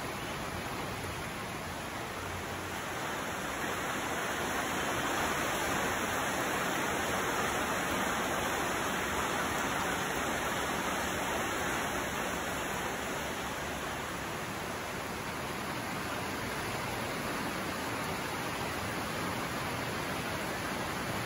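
Heavy rain falling, a steady hiss that swells a little from about four seconds in and eases again after about twelve seconds.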